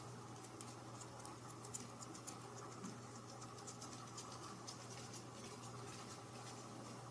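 Faint, irregular light scratching and clicking over a steady low hum.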